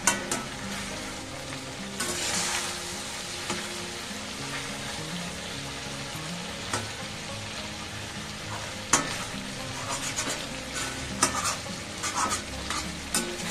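Chicken, tomatoes and onions sizzling in oil in an iron kadai while a spatula stirs and mashes them. The spatula scrapes and knocks against the iron now and then, with a sharp knock about nine seconds in and a run of them near the end.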